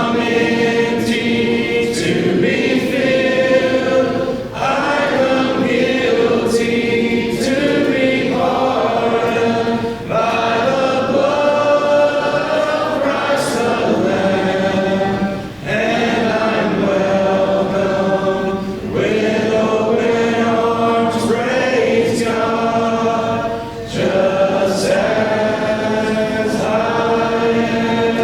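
A congregation singing a hymn unaccompanied, many voices together in sustained phrases, with brief breaks between phrases every few seconds.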